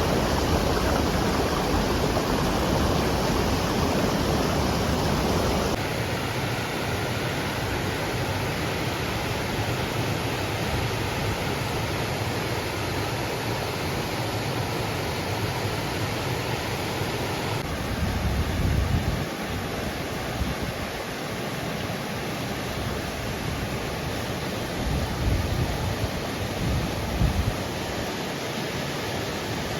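Waterfall: a steady, full rush of falling water that changes character abruptly twice. A few brief low rumbles come in the second half.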